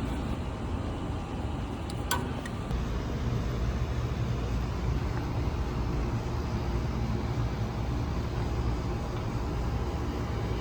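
Steady low rumble of background noise with no speech, and a brief click about two seconds in.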